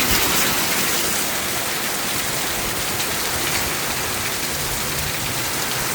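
Heavy rain pouring down steadily in a storm.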